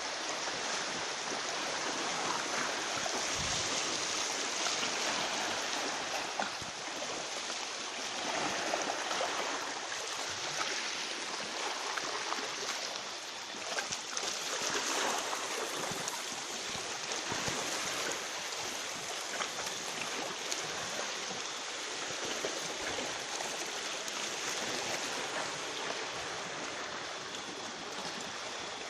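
Sea water washing and rushing continuously, swelling and easing every few seconds.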